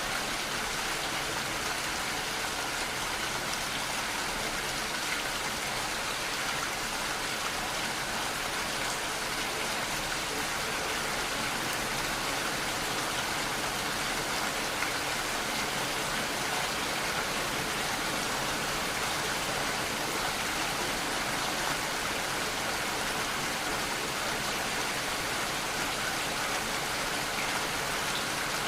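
Steady, continuous rainfall: a dense, even hiss of rain with no thunder or distinct drops standing out.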